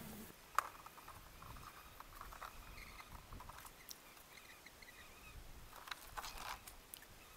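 Faint outdoor ambience with scattered distant bird chirps and a few light clicks, one about half a second in and a couple around six seconds in.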